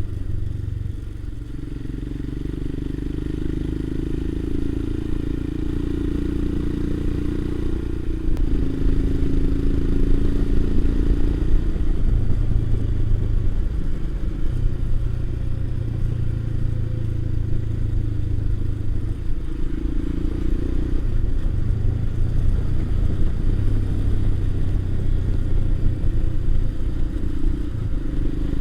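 Motorcycle engine running on the move, its note shifting up and down over the first several seconds, then getting louder about eight seconds in.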